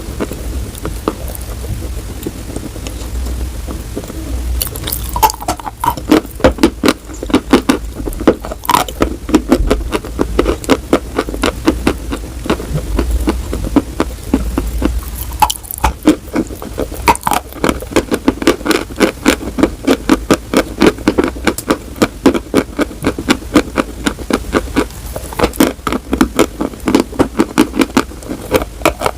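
Close-miked crunching as something hard and brittle is chewed: rapid, even crunches several a second. They begin about five seconds in and break off briefly around the middle, over a low steady hum.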